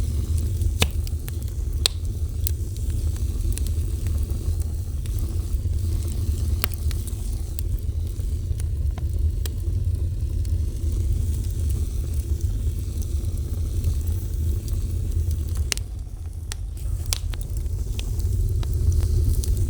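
Fire burning with a steady low rumble, broken by scattered sharp crackles and pops.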